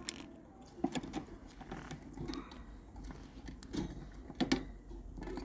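Quaker parrot picking at and chewing a small object with its beak, making scattered light clicks and taps at an uneven pace, a few of them sharper, about a second in and around four seconds in.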